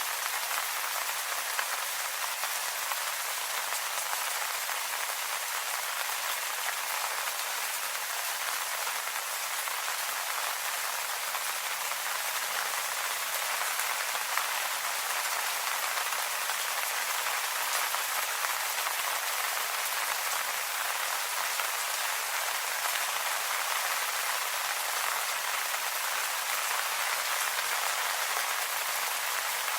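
Steady rain pattering on leaves, an even hiss of many drops with no let-up.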